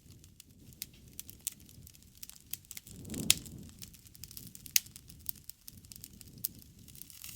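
Wood campfire crackling, with scattered sharp pops at irregular intervals; the loudest comes about three seconds in, and another strong one near five seconds. Underneath is a soft low rumble that swells briefly around the first loud pop.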